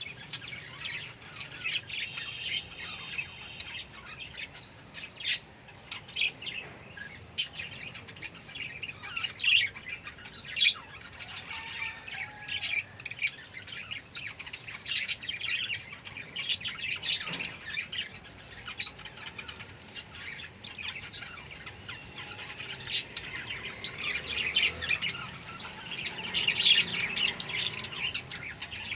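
Budgerigars chattering: many short chirps and squawks, one after another, busiest near the end.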